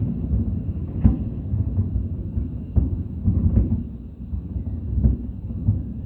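Aerial fireworks bursting in quick succession: a continuous deep rumble of booms with sharp bangs standing out about one, three, three and a half and five seconds in.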